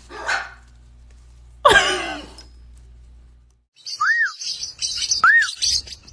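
Pet birds calling: a short call at the start and a loud wavering call about two seconds in, over a low hum that stops about three and a half seconds in. Then comes high twittering chatter with two short rising-and-falling whistles.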